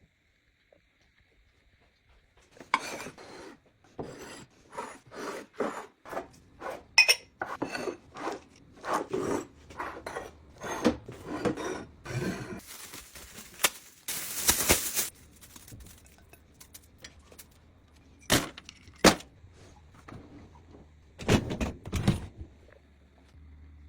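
Household items being handled and set down: a quick run of clinks, taps and rustles, a longer hissing rustle around the middle, then a few sharp knocks near the end.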